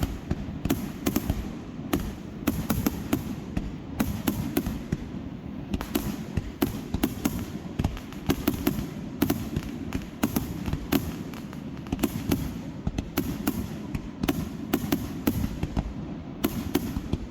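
Fireworks popping and crackling, many sharp cracks a second in an irregular run, over a steady low rumble.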